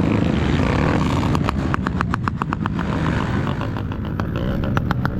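Off-road motorcycle engine running, with two runs of rapid, evenly spaced clicks over it: one about a second in and one near the end.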